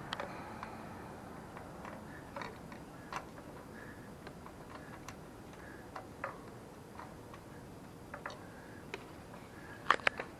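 Faint, scattered light clicks and taps, about one every second or so and a few close together near the end, from tools and brake hardware being handled while the front brake is fitted to the bike.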